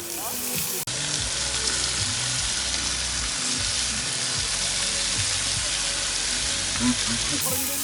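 Food sizzling steadily on a hot cooking surface, starting abruptly about a second in and ending just before the end.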